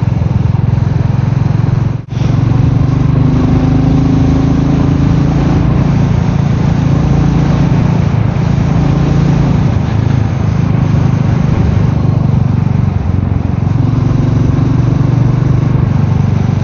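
Royal Enfield Meteor 350's single-cylinder engine running steadily on the move, its note shifting slightly up and down with the throttle, over a steady rush of wind and road noise. The sound drops out briefly about two seconds in.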